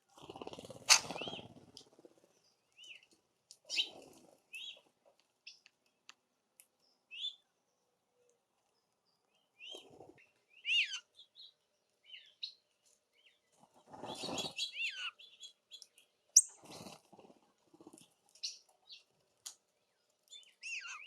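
Songbirds at a feeder calling with short scattered chirps and a few downward-sliding squealing calls. Louder wing flutters and scuffles of birds landing and shifting break in, the loudest about a second in and again around fourteen to fifteen seconds, with a sharp tick a little after.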